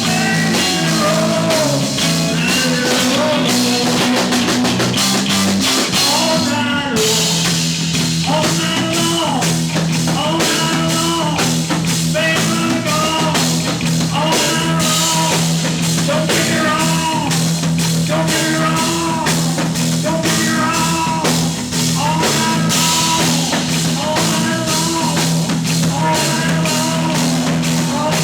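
Live rock band playing a blues-rock number with drums and bass. A lead instrument plays short phrases that bend in pitch, repeating about every two seconds over a steady bass note.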